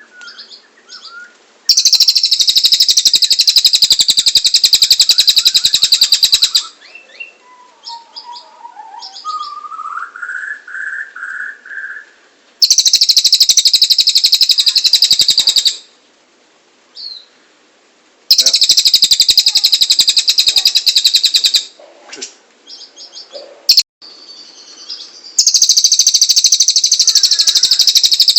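Cililin bird singing: loud, very fast buzzing trills lasting several seconds, four times, with softer chirps and a short rising whistled phrase between them.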